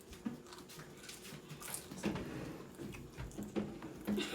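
Faint, scattered eating noises: chewing with small clicks and rustles of food being handled.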